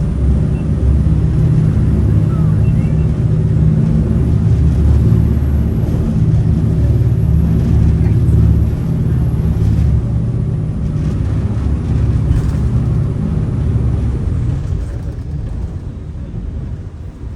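Jet boat's turbo diesel engines running hard, a loud, steady low drone that eases off over the last couple of seconds.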